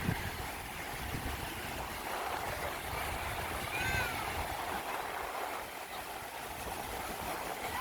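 Steady wash of sea surf and wind at the shore, with a single short high-pitched call about four seconds in.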